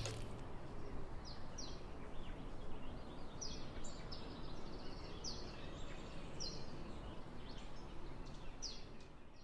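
Outdoor ambience with a steady hiss and a small bird giving short, high, falling chirps roughly once a second.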